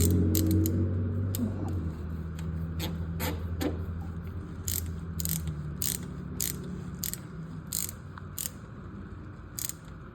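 A run of sharp mechanical clicks, about two a second, like a ratchet, over a low hum that fades away in the first two seconds.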